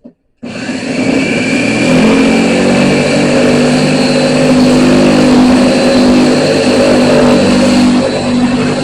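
A metal-shrinking disc spinning on a power tool and rubbing on the steel skin of a 1965 Ford Mustang door, heating the metal to shrink a stretched dent. The whine starts suddenly about half a second in, rises in pitch as it spins up, then runs steady and loud, easing slightly near the end.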